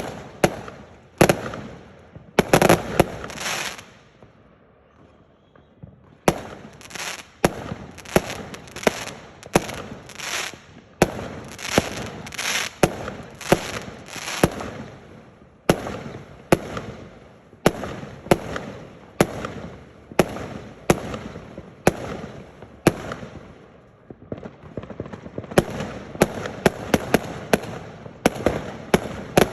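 A firework display barrage: sharp bangs in quick succession, about one to two a second, each trailing off briefly. After a few seconds there is a short lull, and near the end the bangs come faster and denser.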